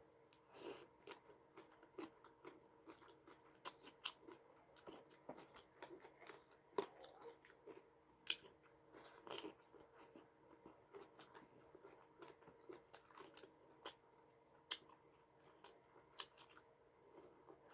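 A person chewing crunchy food close to the microphone, with irregular crisp crunches and mouth clicks.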